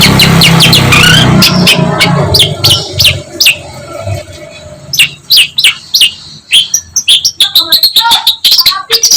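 Long-tailed shrike (condet/pentet) singing a loud, rapid, varied song of chirps, sweeping whistles and harsh clipped notes. The song is rich in 'isian', imitations of other birds' calls, and the pace grows busier in the second half.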